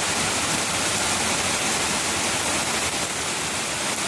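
Heavy thunderstorm downpour: a steady, even hiss of rain.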